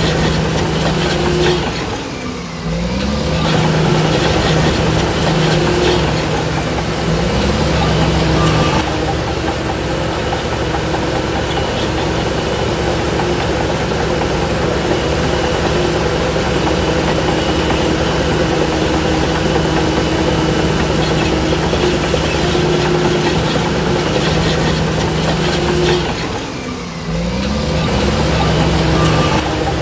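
Heavy diesel engine of earthmoving machinery running hard and steadily. It dips briefly twice, near the start and near the end, and revs back up each time.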